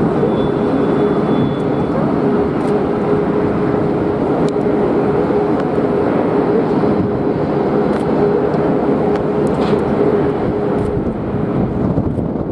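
Jet airliner engines running, a loud steady rush with a steady hum that stops about eleven seconds in.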